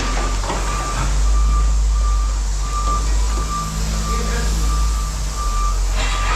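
Vehicle backup alarm beeping in an even, steady rhythm, with a heavy vehicle's engine running beneath it as a low rumble: a truck or yard machine reversing.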